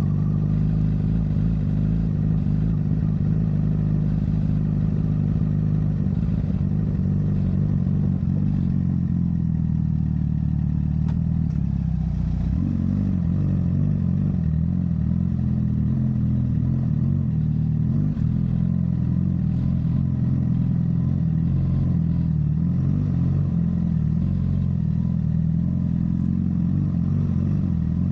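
Honda CBR1000RR's inline-four engine through a Yoshimura full exhaust, running steadily; about ten seconds in its pitch sinks, then climbs back up.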